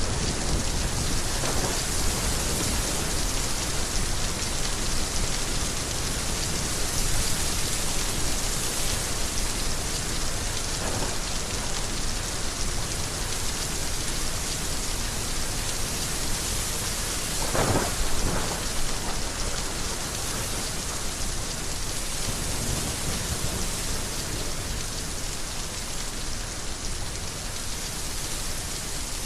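Heavy rain pouring steadily, with thunder rumbling low underneath and a brief louder crackle about 18 seconds in.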